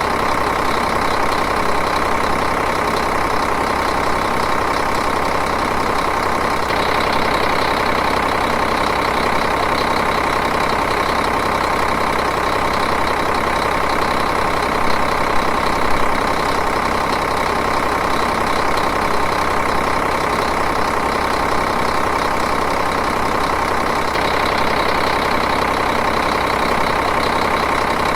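Diesel engine idling steadily, an even running sound with a fine regular pulse.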